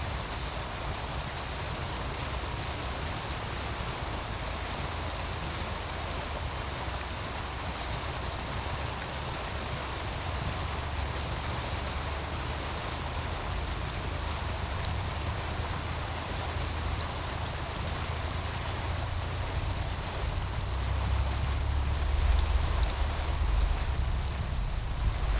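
Wood fire crackling beside a flowing meltwater stream: a steady rush of water with scattered sharp snaps from the fire. A low rumble swells in the last few seconds.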